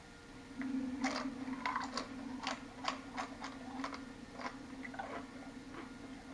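A person chewing a mouthful of food close to the microphone: irregular wet, crunchy clicks and smacks starting about a second in and thinning out after about five seconds, over a steady low hum.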